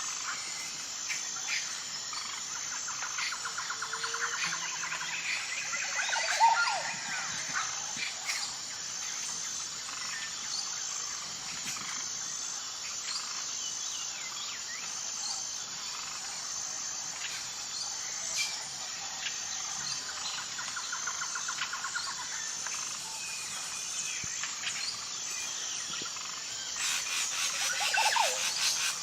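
Wild birds chirping and trilling over a steady, high-pitched insect drone. Louder swooping calls stand out about six seconds in and again near the end.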